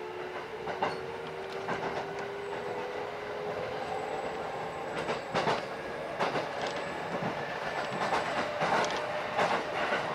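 Electric train running, heard from inside the car: a motor whine slowly rising in pitch as it gathers speed, with the wheels clacking over rail joints, more often in the second half.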